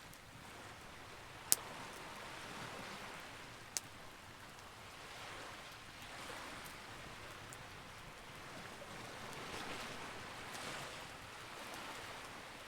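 Campfire burning: a steady crackling hiss that swells and eases, with two sharp pops in the first four seconds.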